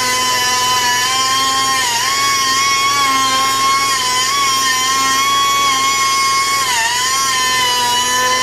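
High-speed power cut-off tool whining steadily as it cuts through the metal of a toolbox, its pitch dipping briefly about two seconds in and again near the end as it is pressed into the cut.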